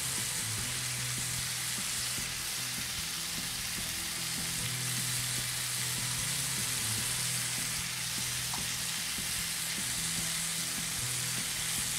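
Chicken tikka pieces on skewers sizzling steadily in a cast-iron grill pan over a gas flame as marinade is brushed onto them.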